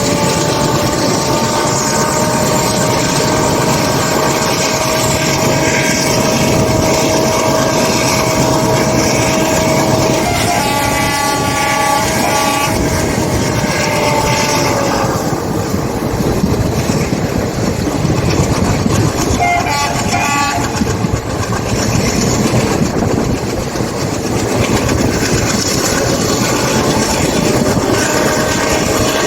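Train running with steady rail noise and a steady whine, and a locomotive horn sounding twice: a chord of about three seconds near the ten-second mark, then a shorter blast around twenty seconds.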